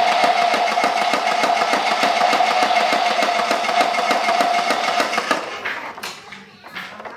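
Small battery-powered toy motor running with a steady whine and rapid, even clicking from its gears, winding down and stopping near the end.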